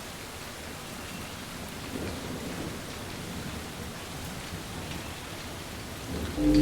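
Steady rain falling. Near the end a sustained ringing tone with several pitches starts abruptly and is the loudest thing.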